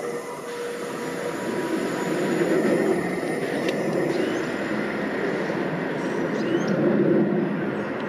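A train running past on the line: a steady rolling rumble of wheels on rails that swells a few times.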